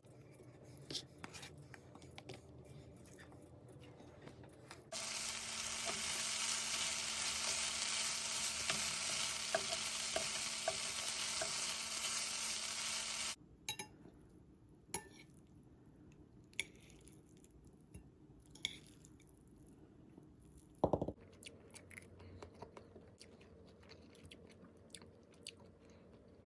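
Seitan frying in hot oil: a loud sizzle with crackles that starts abruptly about five seconds in and cuts off about eight seconds later. Before and after it come scattered small clicks and crunches.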